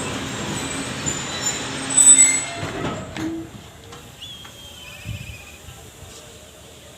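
Passenger train running on the track: an even rumble and rattle of the coaches, with a brief high wheel squeal about two seconds in. The noise drops off sharply about three seconds in and stays much quieter.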